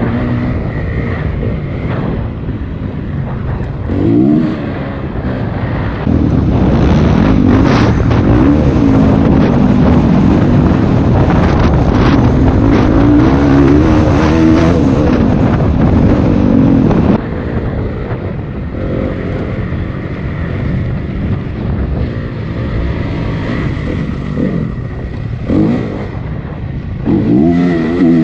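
Honda CRF 250 dirt bike's single-cylinder four-stroke engine revving and easing off as it is ridden around a motocross track, pitch rising and falling with the throttle. A louder stretch of hard throttle begins about six seconds in and cuts back sharply about halfway through.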